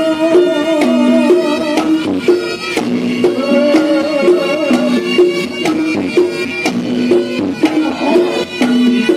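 Reog Ponorogo accompaniment music: a wavering reed-trumpet melody over repeated pitched gong notes and steady drum strokes.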